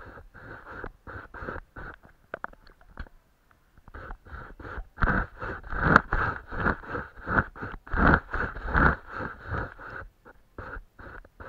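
Paintbrush stroking and dabbing paint onto paper in short repeated strokes, about two or three a second, louder through the middle stretch.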